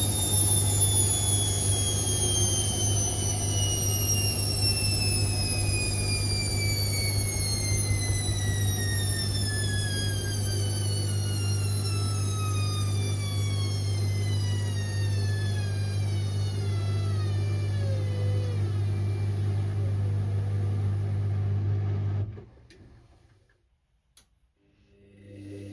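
Indesit IWC6165 washing machine winding down from a spin: the motor's whine falls steadily in pitch as the drum slows, over a steady low hum. About 22 seconds in the sound cuts off to near silence, a single click follows, and a new low hum starts near the end.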